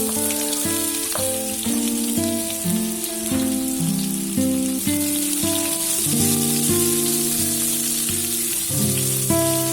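Food sizzling steadily as it fries in a pan, under background music of plucked, guitar-like notes.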